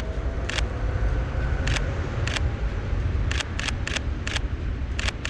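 Shutter of a Sony a7 III mirrorless camera firing about ten times, sharp clicks at irregular spacing, some in quick succession, over a steady low rumble.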